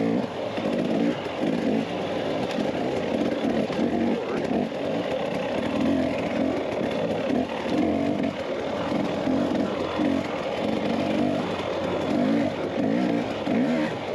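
Dirt bike engine running as the bike is ridden, the throttle rising and falling.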